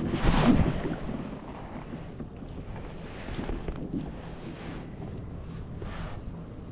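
Wind buffeting the microphone, loudest in a gust about the first second, with small waves lapping against a kayak.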